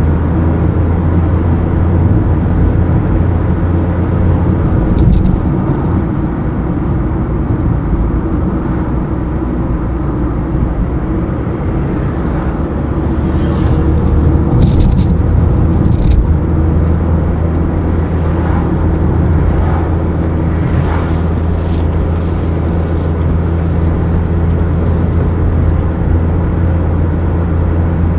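A car driving on a highway, with a steady low engine hum and road noise. A few brief high clicks come about five seconds in and around fifteen seconds in.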